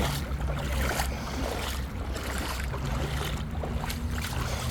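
Water sloshing and splashing around a person's legs as they wade through a river, over a steady low rumble of wind on the microphone.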